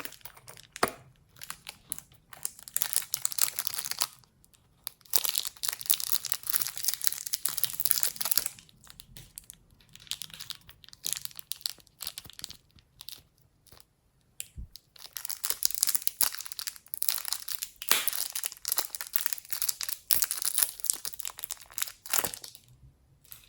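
Slime being squeezed and kneaded by hand, giving dense crackling and crinkling in several stretches a few seconds long, with short quieter pauses between them.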